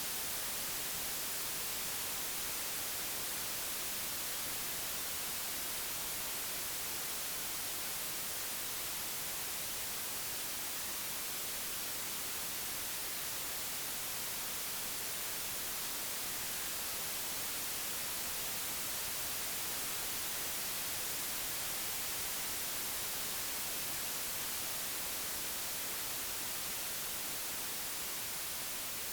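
Steady, unbroken white noise: an even hiss across all pitches, brightest in the highs, with no changes.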